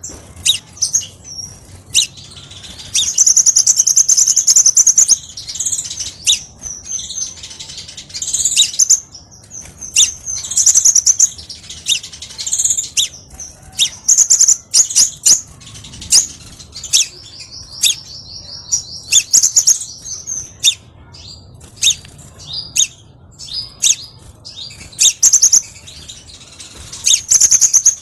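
Crimson sunbird (kolibri sepah raja) singing. It gives rapid high-pitched trills mixed with sharp chip notes, with one longer trill in the middle. This is a lure song used to set off and attract the species.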